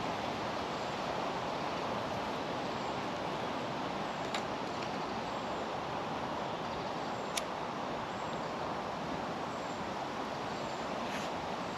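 Steady rushing background noise, with two sharp clicks about four and seven seconds in and a few faint high chirps.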